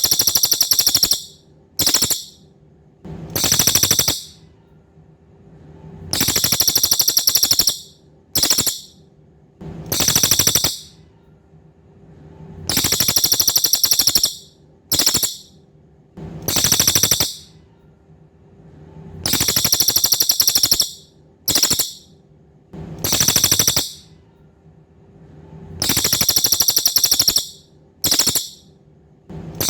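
Cililin songbird singing very high, rapid stuttering trills in a repeating pattern: a long trill of one to two seconds, a short one, then another long one, with the group coming round every six or seven seconds. A faint steady hum runs underneath.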